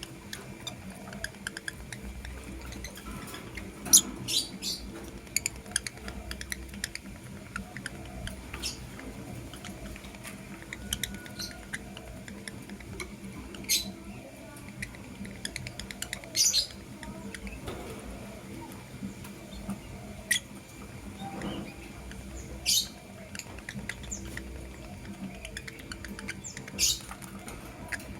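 Lovebirds giving short, sharp chirps every few seconds, with small scratchy clicks and ticks between the calls.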